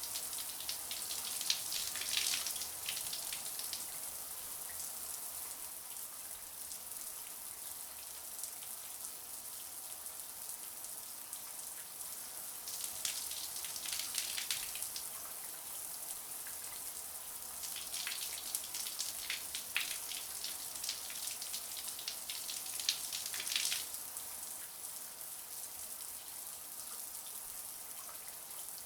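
Running shower: a steady high hiss of falling water, with spatters of sharper splashes that come and go every few seconds.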